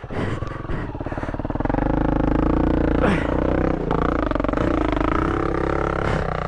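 A Honda dual-sport motorcycle's single-cylinder engine comes up on the throttle and holds steady under load on a steep trail climb.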